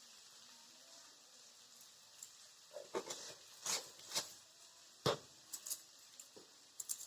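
Potatoes frying faintly in oil in a pan, a low steady sizzle, joined about halfway through by a series of light clicks and knocks of kitchen utensils being handled.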